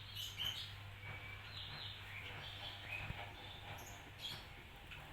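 Birds chirping faintly in short, scattered high calls over a steady low hum.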